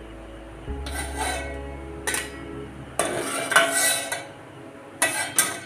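A perforated steel skimmer scraping and clinking against an aluminium pot and a steel plate as boiled mushrooms are scooped out of the water, a series of irregular clatters loudest about three and a half seconds in.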